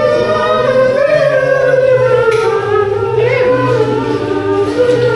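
A small group of people singing together without accompaniment, low and high voices holding long, slowly moving notes at the same time.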